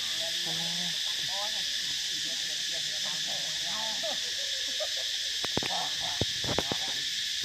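A steady high-pitched drone, like a chorus of insects, with faint warbling calls beneath it and a handful of sharp clicks in the second half.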